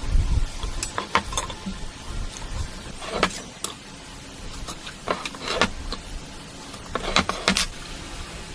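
Irregular light knocks, clicks and short scraping strokes from woodworking handwork, with tools and wooden parts being handled and worked. There is a scrape about three seconds in and a cluster of scrapes and clicks near the end.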